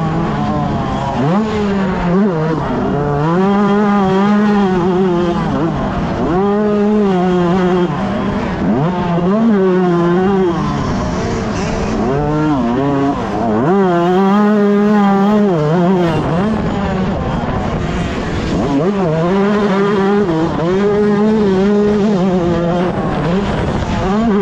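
125cc two-stroke motocross bike engine revving hard, its pitch climbing and falling over and over every couple of seconds as the throttle is worked.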